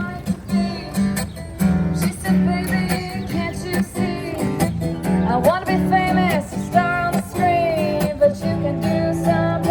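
Acoustic guitar strummed with a voice singing a melody over it.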